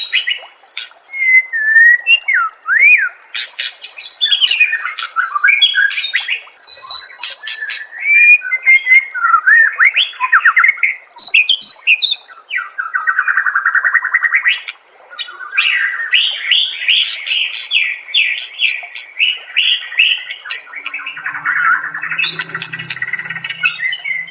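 White-rumped shama (murai batu) singing a long, varied song. Swooping whistled glides give way about halfway through to fast runs of rapidly repeated notes and dense trills.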